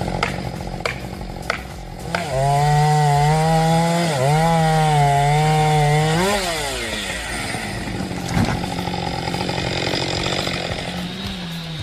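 Chainsaw revved to full throttle about two seconds in and held there for about four seconds, with a brief dip midway. It then winds down to a lower, steady running speed.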